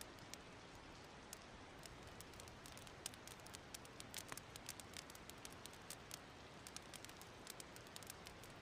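Wood fire crackling softly: many small, irregular sharp pops over a steady faint hiss.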